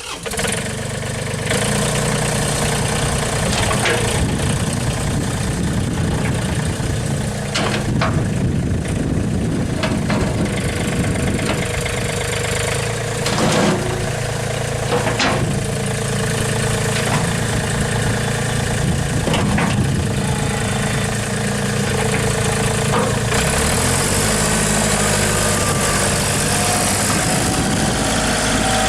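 John Deere 3320 compact tractor's diesel engine idling steadily, with a few sharp clicks or knocks and a brief change in engine speed about three-quarters of the way through.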